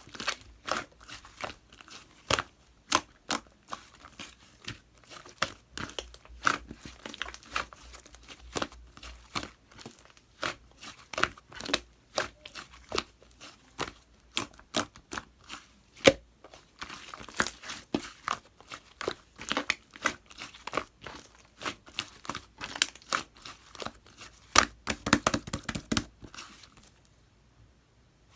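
Hands kneading and stretching white slime with pink clay worked into it, giving a rapid irregular run of sticky clicks and pops. The sound stops about a second before the end.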